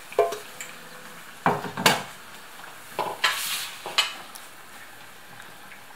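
Curd-dough rings being laid into hot frying oil: several short bursts of sizzling with clatter of a utensil against the pan, the loudest about one and a half to four seconds in.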